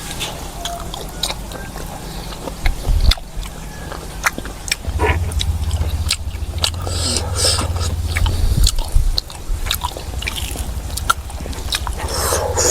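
Close-up eating sounds: a person biting and chewing a meal of pork, fried mustard leaf and rice, with repeated wet mouth clicks and smacks.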